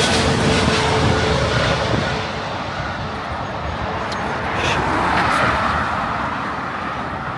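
Jet airliner passing low overhead on its landing approach: a loud engine roar whose falling whine fades out about two seconds in, leaving a steady rumble.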